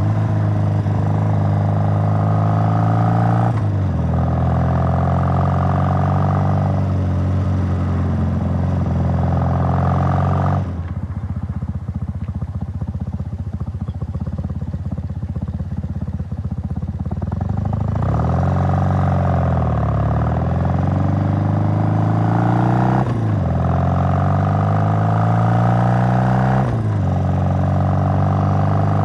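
1968 Triumph Bonneville's 650 cc parallel-twin engine on a road test ride, accelerating with its pitch climbing and falling back sharply at each gear change. About a third of the way in the throttle is rolled off and the engine runs quieter and lower for several seconds. It then slows and pulls away again, climbing through more gear changes.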